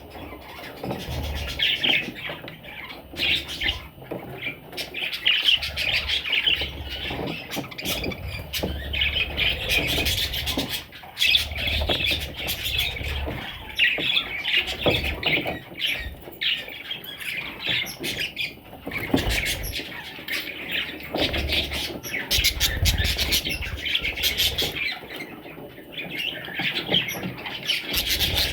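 Pet parrots chattering and squawking continuously, a busy stream of short calls and clicks.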